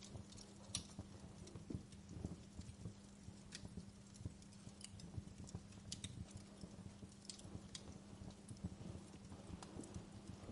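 Wood fire in a fireplace crackling, with irregular sharp pops and snaps over a low rumble and a faint steady hum.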